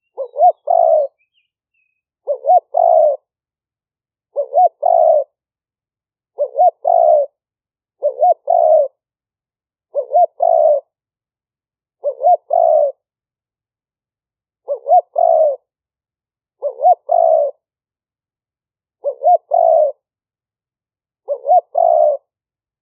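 Spotted dove cooing its decoy call: a short note followed by a longer two-part coo, repeated about every two seconds with silence between the phrases.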